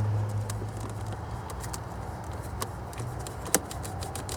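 Razor blade cutting through a plastic fuel line by hand: faint small clicks and scraping, with one sharper click about three and a half seconds in, over a low steady hum.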